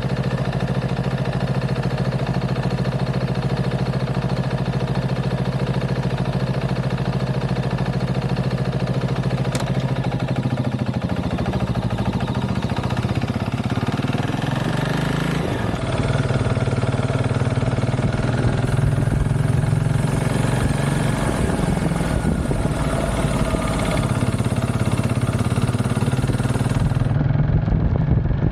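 KTM 690 SMC R's single-cylinder engine running through a DVR aftermarket exhaust, idling steadily for about ten seconds; then the engine note rises and falls and settles at a higher, steady pitch.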